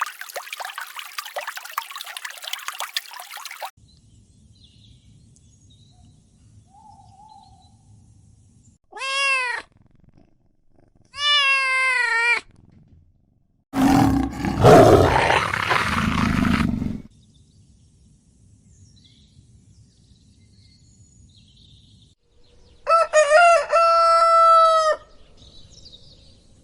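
A string of separate animal calls with hiss and quiet gaps between them. Two short pitched calls come in the first half, then a loud rough roar-like call lasting about three seconds, and near the end a longer call that wavers in pitch. It opens with a few seconds of hissing.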